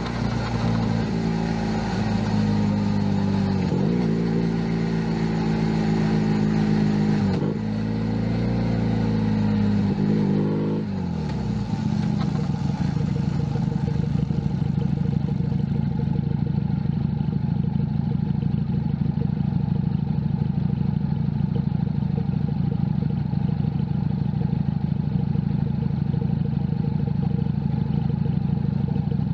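Junak M11 Cafe's 125cc engine under way, its revs rising and briefly dipping twice, then winding down about eleven seconds in. It settles into a steady idle for the rest of the time.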